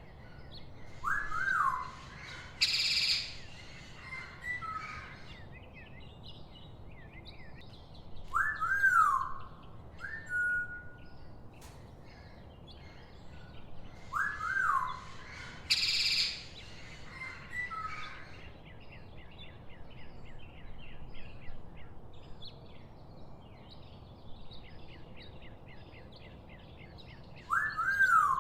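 Birds calling over a soft background hiss. A clear whistled note that rises and falls comes four times; two loud, harsh screeches come about 3 s and 16 s in; fast chattering trills fill the gaps. The same sequence repeats about every 13 seconds.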